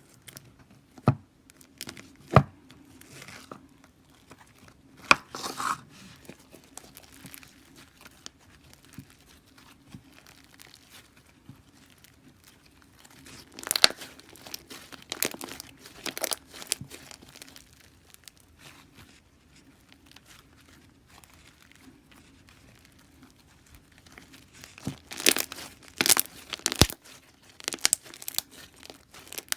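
Soft bead slime being stretched and squished by hand: crackling and crinkling with sharp pops, in clusters about a second in, around the middle and near the end.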